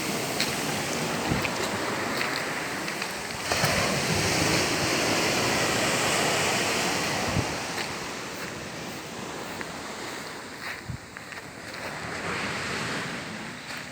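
A steady rushing noise, like surf or wind outdoors, that swells about three and a half seconds in and eases off again after about eight seconds, with a few faint clicks.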